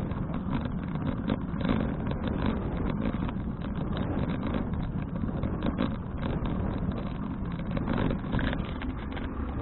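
Steady wind buffeting and road rumble on an action camera's microphone while cycling, with frequent small clicks and rattles from the bicycle over the road surface.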